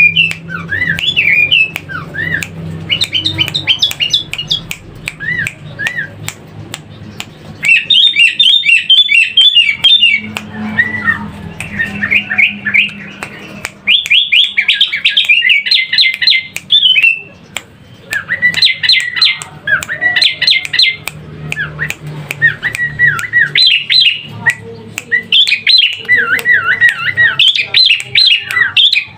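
A pet sooty-headed bulbul (kutilang) calling over and over in bursts of quick, bright chirps, with sharp clicks in between.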